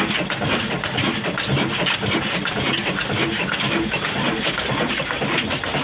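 Old Ruston stationary diesel engine running steadily, with a continuous rapid clatter of knocks.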